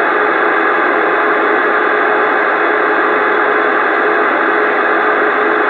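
Steady, loud CB radio static hiss from the Galaxy DX929 receiver between transmissions, an even rush of noise with no voice on the channel.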